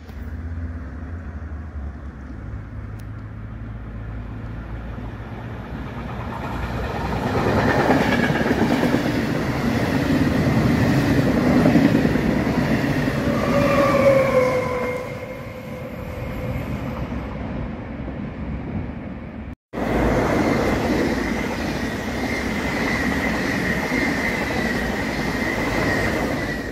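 Electric passenger train headed by a Trenitalia E464 locomotive passing close by: the rush of wheels on rail builds to loud, with a whine that drops in pitch as it goes past. After a brief break, a second train passes with a steady rush and a high, held whine.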